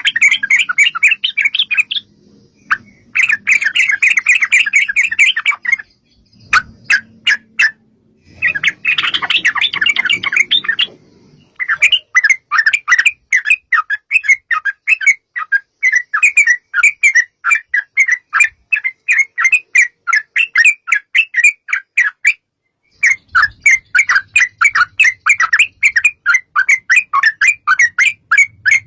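Yellow-vented bulbul (trucuk) singing loud, rapid chattering phrases, first in short bursts with pauses, then in a long unbroken rolling run of quick notes (the "ropel panjang" song) that breaks off briefly near the end and starts again.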